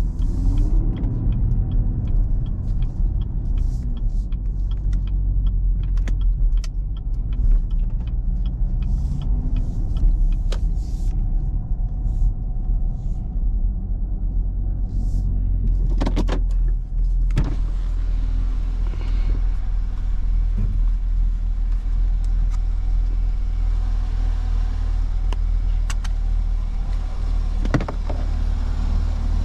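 Chevrolet Camaro 2SS's 6.2-litre V8 idling with a steady low rumble, with scattered clicks and a few sharper knocks.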